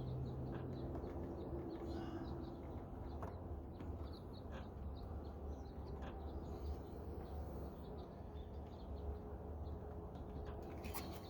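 Outdoor background of a steady low rumble with faint bird calls, and a few small clicks as plastic door-trim clips are worked loose by hand.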